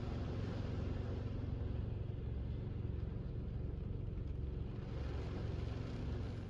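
Storm wind buffeting the RV, heard from inside as a steady low rumble.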